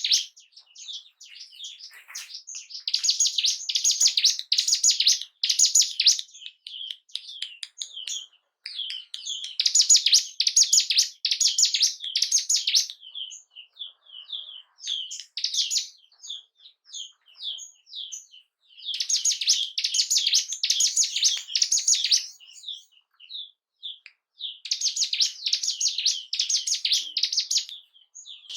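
Ciblek gunung (a mountain prinia) singing: bursts of fast, high, closely packed notes lasting a few seconds each, four bursts in all, with scattered single chirps between them. This is lure song meant to set off a caged bird's breeding drive and aggression.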